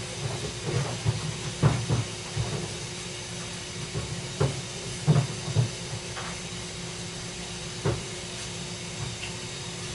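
Steady background hiss with scattered knocks and clatters, the loudest about a second and a half in and about five seconds in.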